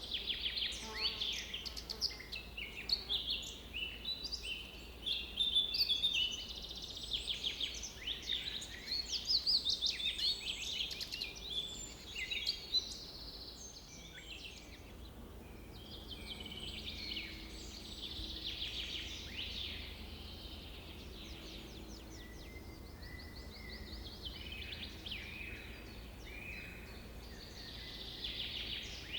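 Several songbirds singing and chirping in quick, overlapping phrases, busiest in the first half and thinning out after about halfway. A faint steady low hum sits underneath in the second half.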